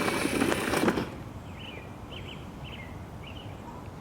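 A loud, noisy rumble cuts off about a second in. A bird then chirps in several short, quick phrases over quiet outdoor background.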